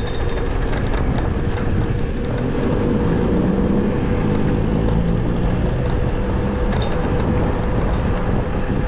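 Road traffic and wind noise heard while riding an electric bicycle on a city street, with a steady hum underneath and the pitched sound of a passing vehicle a few seconds in.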